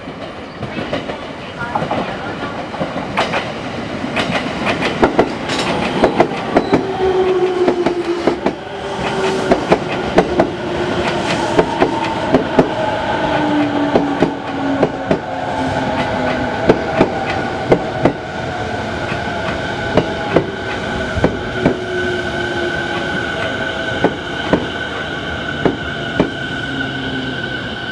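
TWR 70-000 series electric train pulling into the station and slowing. Its wheels clack over rail joints and points, irregular and loud, under a whine from the motors that falls in pitch as it brakes. A steady high-pitched tone comes in toward the end.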